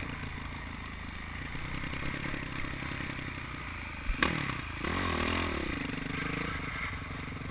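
Motocross bike engine running, with a sharp knock about four seconds in followed by revs rising and falling for a couple of seconds.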